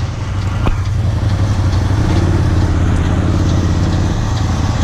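John Deere 7720 combine's diesel engine running steadily, a constant low drone, with one sharp click about a second in.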